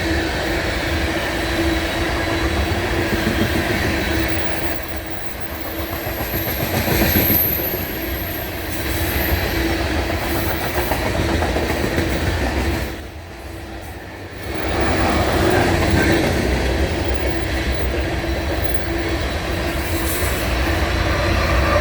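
Cars of a BNSF coal train rolling past at speed, with a steady rumble and wheels clacking over the rail joints. A thin high wheel squeal comes in about six seconds in. The noise dips briefly a little past halfway.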